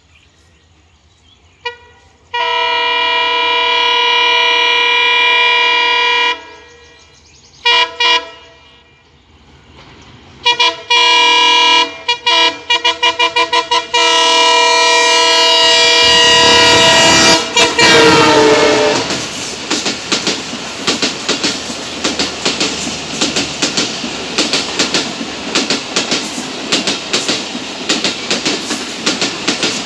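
Diesel locomotive's air horn sounding as an express train approaches at speed: a long blast, two short toots, then a string of rapid toots and a last long blast whose pitch drops as the locomotive goes past. Then the passing coaches' wheels run over the rail joints in a fast, even clickety-clack.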